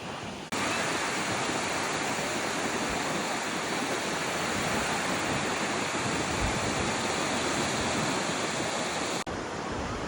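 Ocean surf on a sandy beach: a steady, loud rush of breaking waves and washing water. It cuts in suddenly about half a second in and cuts off suddenly near the end, giving way to a quieter surf sound.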